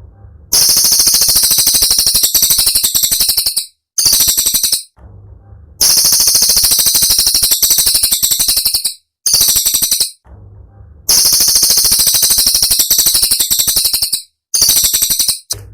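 Cililin bird song: loud runs of very rapid, dense high-pitched stuttering notes, each run lasting one to three seconds with short pauses between, six runs in all.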